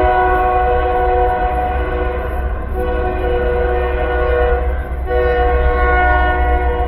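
A loud, sustained horn-like chord of several steady tones over a low rumble, easing briefly about two and a half seconds in and again about five seconds in before sounding strongly again.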